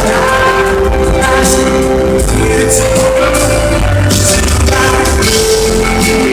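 Live pop ballad played by a band with a singer, recorded from the audience with poor, muddy sound: held sung notes over a loud, steady backing.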